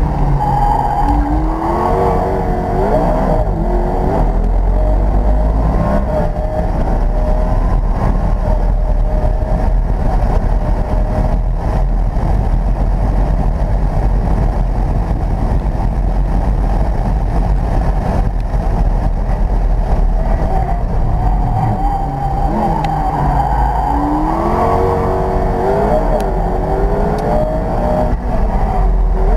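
McLaren P1's twin-turbo V8 heard from inside the cabin at full throttle, its note climbing through the first few seconds. It then holds a steady roar with wind noise at around 150 mph. From about two-thirds of the way in the pitch falls and rises again as the car brakes and shifts down for a corner.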